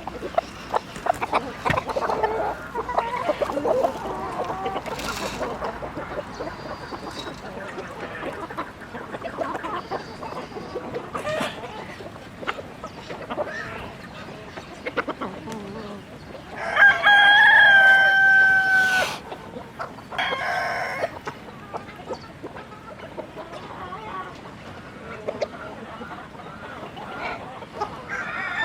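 A flock of chickens clucking and calling, with a rooster crowing loudly once from about sixteen and a half seconds in, a long drawn-out crow, followed by a shorter call.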